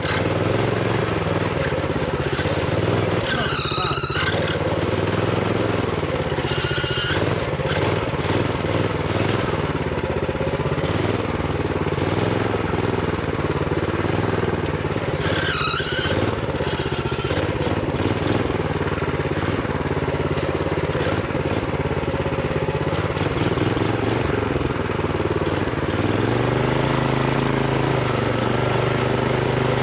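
Minibike's Honda GX390 single-cylinder engine running at limited rpm while riding, with a few short wavering high-pitched sounds over it. Near the end it settles into a steady lower note, as at idle.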